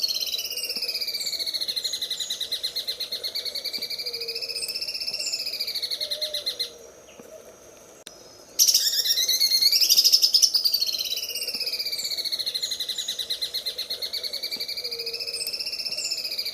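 Green leafbird (cucak ijo) singing its 'sewing-machine' trill, a long run of very fast buzzy notes that dips and rises in pitch. It stops for about two seconds a little before halfway, then starts again loudly and runs on.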